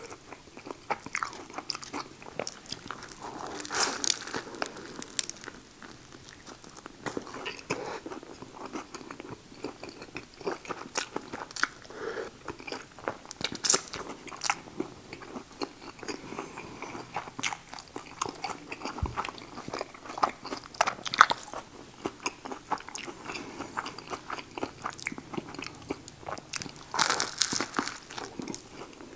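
Close-up eating sounds of a man biting into and chewing a Subway buffalo chicken sandwich, with crunches and wet smacking in an irregular rhythm.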